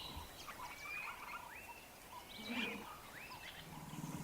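Faint wild ambience of several birds calling: many short chirps and rising whistles overlapping, with a faint low hum near the end.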